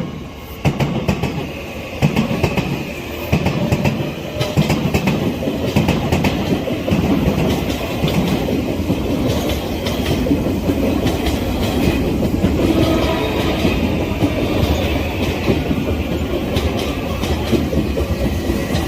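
Odakyu Line electric train passing over a level crossing, its wheels clacking over rail joints. Sharp clacks come in the first few seconds, then a steady rumble with fine clatter as the carriages roll by.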